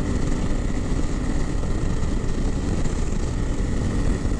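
Honda CRF300L single-cylinder engine running steadily at riding speed, with wind rushing over the microphone.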